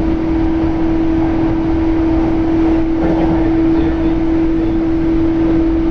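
Cabin running noise of a JR East E235 series electric train travelling at steady speed. A steady hum holds one pitch over an even rumble from the wheels on the track.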